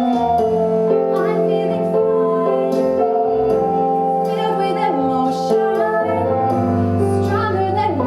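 A musical number: young voices singing over an instrumental backing, with held notes.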